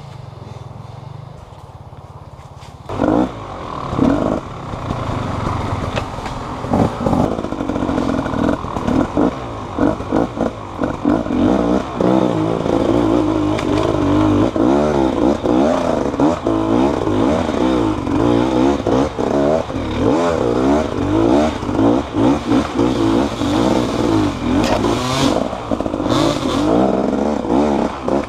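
Motorcycle engine running, low and even for the first three seconds, then revving up and down almost without a break, with some clattering and scraping.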